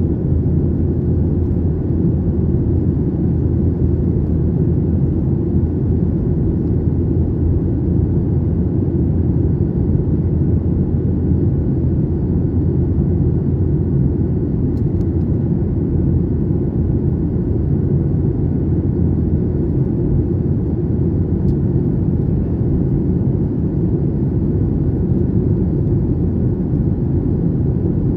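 Airliner cabin noise in flight: the steady low rumble of the jet engines and the air rushing past the fuselage.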